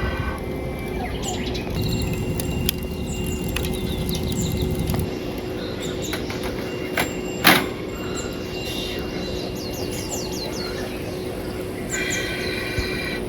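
Small birds chirping, with many short, quick downward-sliding calls over a steady background rumble. A single sharp knock stands out about seven and a half seconds in.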